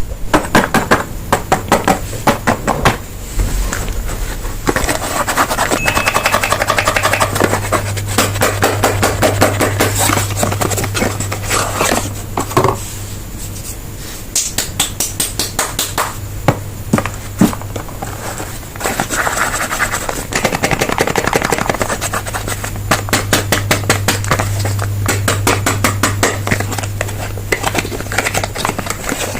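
Soap bars being unwrapped: packaging crinkling and crackling in rapid clicks, with stretches of rustling, over a steady low hum.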